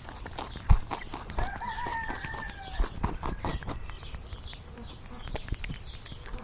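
A rooster crows once, a wavering call about a second and a half long starting about a second and a half in. Repeated short high chirps and scattered knocks run beneath it.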